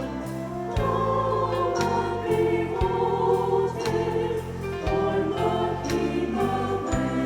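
High school choir singing held chords with accompaniment, the chords changing about once a second.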